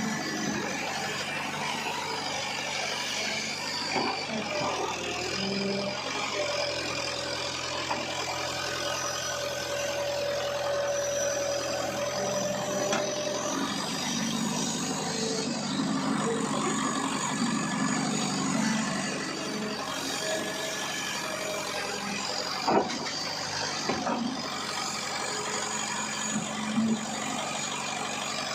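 Heavy diesel engines of an excavator and truck running steadily, with a few sharp knocks in the last third.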